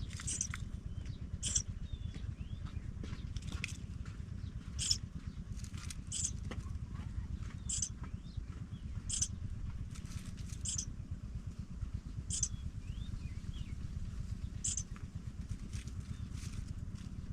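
Short, very high-pitched bird chirps repeating irregularly, about one every second or so, with a few fainter thin chirps lower down, over a steady low rumble.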